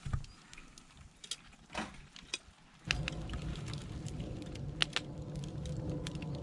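Burning wood crackling with scattered sharp clicks, joined about three seconds in by a steady low rumbling noise.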